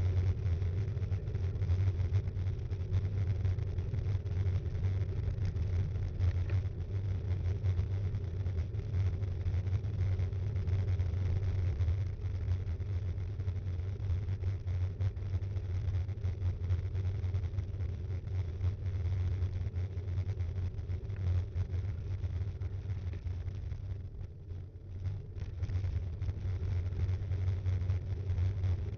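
Steady low rumble of wind and road vibration picked up by an action camera mounted on a moving mountain bike, easing briefly near the end.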